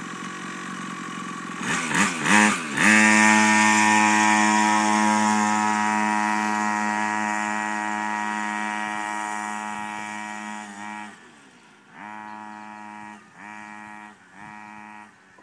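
Mini motocross bike engine running at low revs, blipped twice, then held at a steady high rev that slowly fades. Near the end come three short bursts of throttle.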